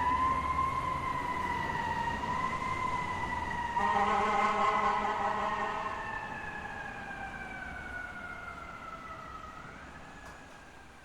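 Fire truck siren in a slow wail, its pitch drifting gently up and down, with a second, fuller siren tone joining about four seconds in. The wail then slides lower and fades steadily away.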